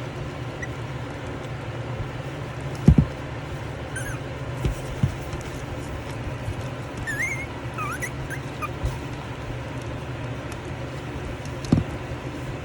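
Jack Russell Pomeranian puppies giving a few short, high squeaks, over a steady low hum. A few knocks are heard, the loudest about three seconds in and another near the end.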